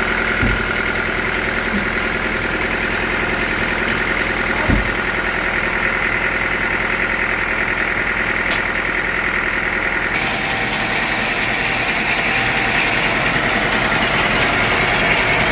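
Sawmill machinery running steadily with an engine-like hum and a couple of light knocks; about ten seconds in the sound shifts to a brighter, hissier tone.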